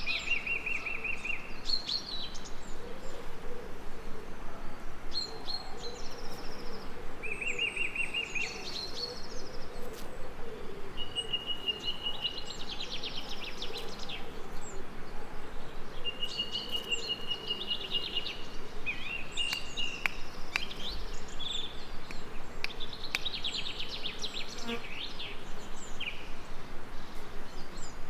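Songbirds singing short, repeated trills and chirps, one after another, with a bee buzzing low and wavering underneath for much of the first two-thirds.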